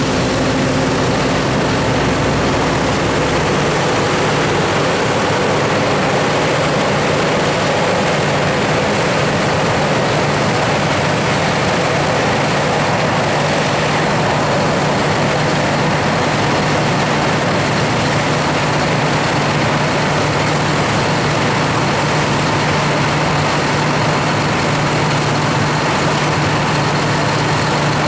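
John Deere 7780i self-propelled forage harvester running steadily while chopping: a constant deep engine hum under a dense, even machine noise.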